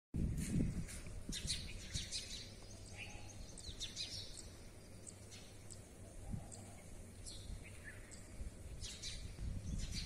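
Birds chirping in short, high calls scattered through, over a low rumble that is strongest in the first second and again near the end.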